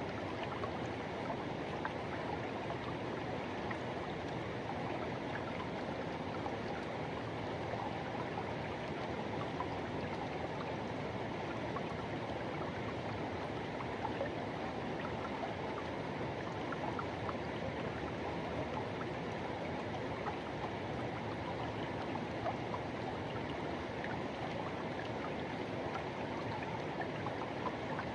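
Forest river rushing over rocks: a steady, even wash of flowing water with small splashes and gurgles.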